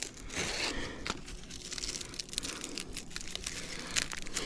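Dry leaves and plant matter rustling and crackling as they are handled, with many small scattered crackles.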